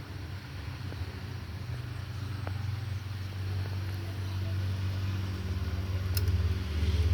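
Steady low mechanical hum, like a motor running, growing slightly louder, with a few faint clicks near the end.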